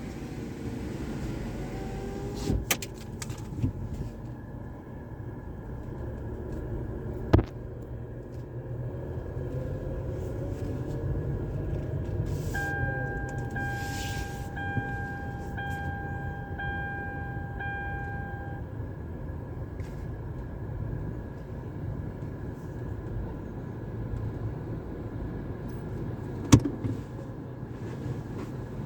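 Car idling, heard from inside the cabin, with a power window whirring shut near the start and a few sharp clicks. Around the middle there are about six evenly spaced electronic beeps, roughly one a second.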